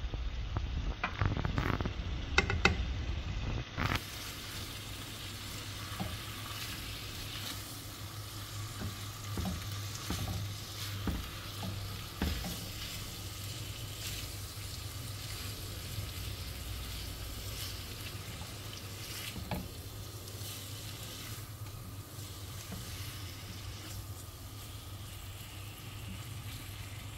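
Spiced chicken pieces sizzling in oil in a nonstick frying pan, stirred with a silicone spatula. A few knocks in the first seconds, then a steady sizzle with light scraping and clicks of the spatula.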